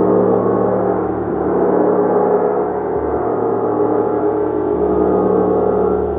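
Gong played continuously: a steady, dense wash of many overlapping ringing tones, with the low hum shifting every second or two and no distinct single strikes.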